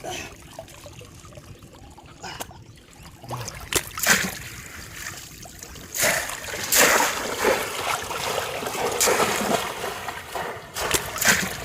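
Water splashing and sloshing, with a few sharp splashes about four seconds in and a heavier, continuous stretch of splashing from about six to ten seconds in.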